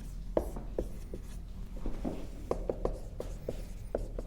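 Someone writing by hand: an uneven run of short taps and strokes.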